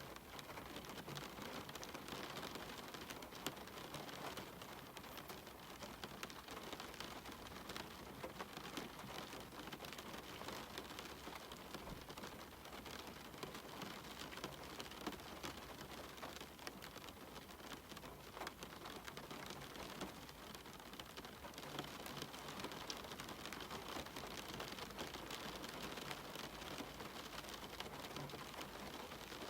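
Steady rain falling, a continuous hiss of many small drops with scattered sharper drop ticks, as on a cabin window.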